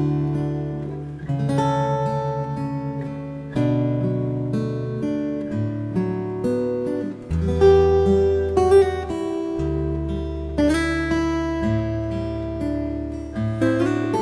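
Relaxing acoustic guitar music: chords plucked and strummed over a bass line, a new chord about every second or two, each ringing on.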